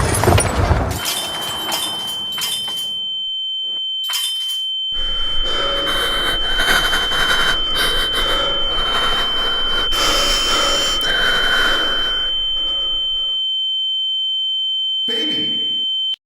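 A steady high-pitched ringing tone, the ears-ringing effect of being dazed after a car crash, held for about fifteen seconds over a muffled, noisy background, then cut off suddenly near the end.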